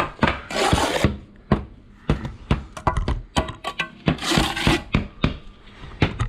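Bricklaying trowel working mortar on concrete blocks: two scraping sweeps and a run of sharp taps and knocks.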